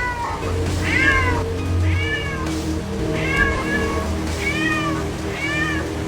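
A cat meowing repeatedly, about once a second, over steady background music.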